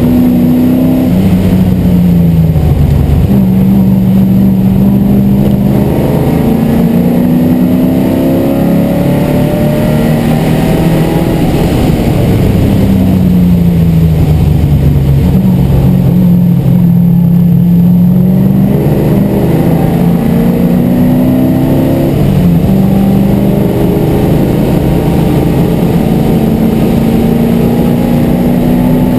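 MGB GT V8's Rover V8 engine heard from inside the cabin under racing load, revving up through the gears and dropping in pitch at each change and on lifting off. About halfway through the pitch slides down for a couple of seconds, then climbs again as the car pulls away.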